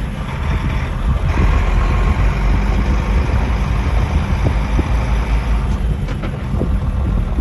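Vehicle driving, with a steady low engine and road rumble and a few light ticks between about four and six seconds in.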